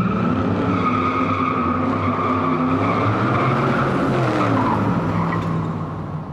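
Car tyres squealing in a long skid, with an engine note underneath that rises and falls in pitch; it fades near the end.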